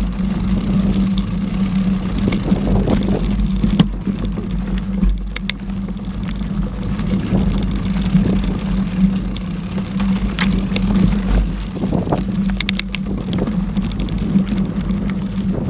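Mountain bike ridden along a dirt forest trail: a steady rumble of wind and tyre noise on the microphone, with the bike rattling and clicking over bumps, several sharp clicks coming close together near the end.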